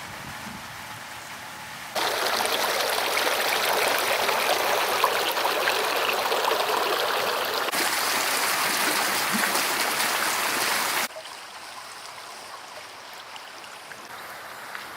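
Running water splashing steadily, an even hiss that starts and stops abruptly, set between quieter stretches of steady outdoor noise.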